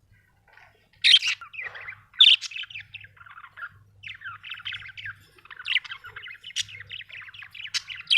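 Budgerigar chirping, starting about a second in and running into a fast, near-continuous warbling chatter of short notes.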